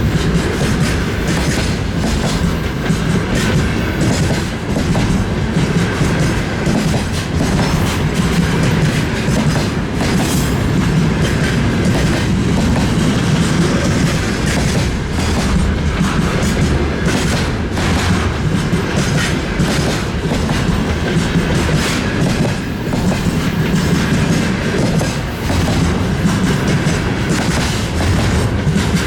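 Freight train rolling past, its wagon wheels clattering over the rail joints in a steady, unbroken rumble.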